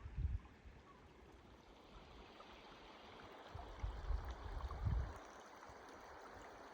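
Faint, steady rush of a mountain stream, with low rumbles from about three and a half to five seconds in.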